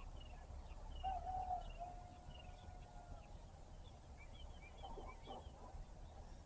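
A rooster crows once, faintly, about a second in: a wavering start, then a long held note lasting about two seconds. Small birds chirp over it in quick repeated notes, and there is a short burst of calls about five seconds in.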